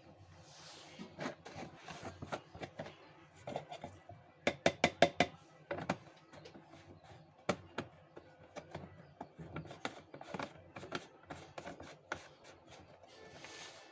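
Small hand tools working on a mobile phone during repair, making irregular clicks, taps and light scraping. A quick run of about six sharp clicks comes a little before the middle and is the loudest part.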